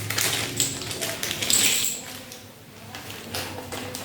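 Small plastic game pieces clicking and clattering as they are handled and set down, a run of quick taps that is busiest in the first two seconds.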